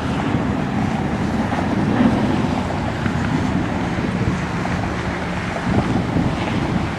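Steady rumbling jet airliner engine noise, with wind buffeting the microphone.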